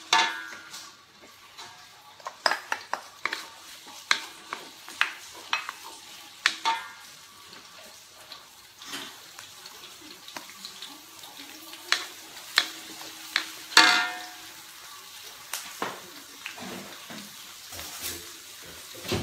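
Sliced shallots and garlic sizzling in hot oil in a metal wok. Frequent sharp knocks and clinks sound over the sizzle, some of them ringing briefly, from a wooden spatula against the wok.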